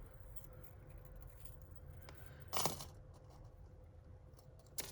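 Costume jewellery being handled and set down: a short clatter about two and a half seconds in and a light click near the end, over a faint steady hum.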